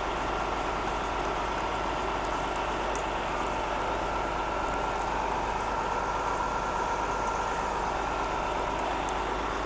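Steady running of a vehicle's engine heard from inside the cabin, a constant hum with no change in pitch or level, typical of a vehicle idling or creeping in stalled traffic.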